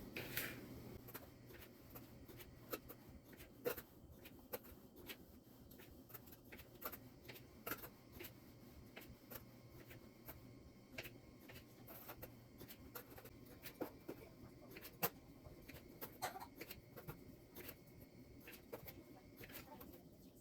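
Faint, irregular taps of a knife on a cutting board as cherry tomatoes are cut in half, with small handling clicks.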